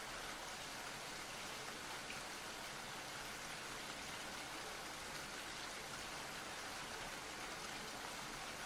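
A steady, even hiss of ambient white noise, rain-like, with no distinct events or changes.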